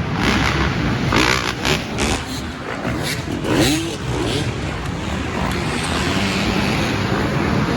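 Dirt bike engines revving on a track, the pitch rising and falling as the riders work the throttle.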